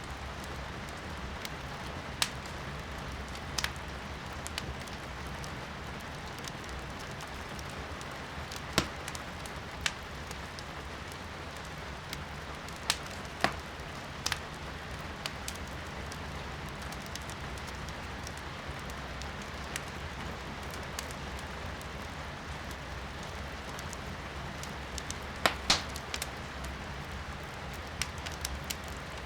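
Firewood burning in a fireplace, crackling with sharp, irregular pops and a quick cluster of louder ones near the end, over a steady hiss of rain.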